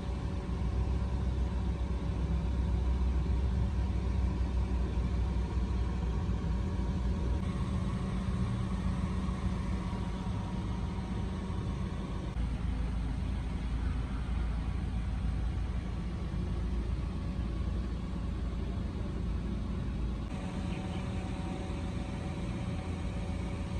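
Car engine idling steadily, a low rumble with a faint steady hum above it that shifts slightly a few times.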